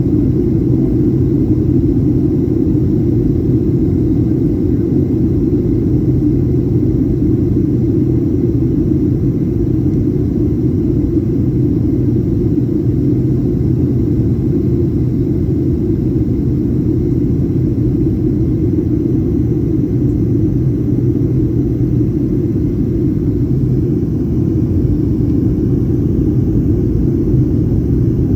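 Steady low rumble inside the cabin of a Boeing 737-800 airliner: airflow and engine noise.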